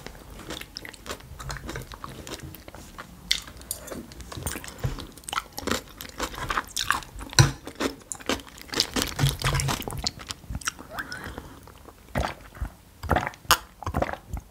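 A person chewing and biting food close to the microphone, with irregular sharp crunches and wet mouth sounds; the loudest crunch comes about halfway through.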